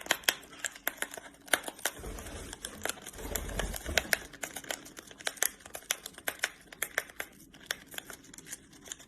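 Pet parrot opening a tea packet with its beak: rapid sharp clicks and snaps with crinkling and tearing of the wrapping. It rustles more heavily, with a low bumping, about two to four seconds in.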